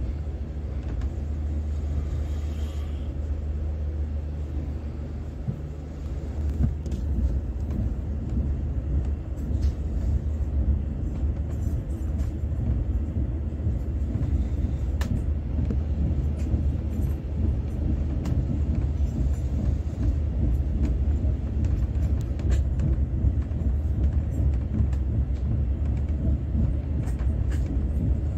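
Passenger train running: a steady low rumble that grows a little louder about six seconds in, with a few faint clicks.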